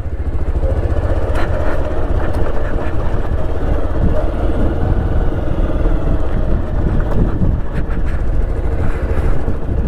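Motorcycle being ridden on a rough road: the engine running under a heavy, steady rumble of wind and road noise, with a few short knocks and rattles.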